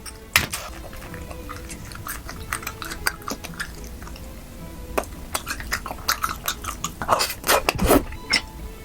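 Close-up chewing of Korean rice cakes (tteok): a run of wet mouth clicks and smacks, busier and louder in the second half, over quiet background music.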